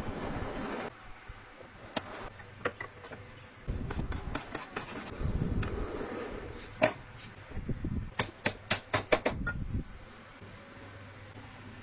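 Sharp knocks and taps from hand work on wood: a single loud knock about seven seconds in, then a quick run of about six taps, over a low, rough rubbing noise in the middle.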